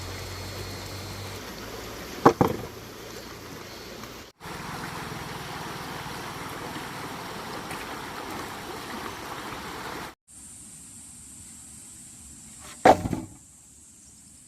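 Steady rush of flowing water, broken twice by a single sharp knock, the first about two seconds in and the second near the end. After a cut about ten seconds in, the water gives way to a quieter background with a steady high-pitched buzz.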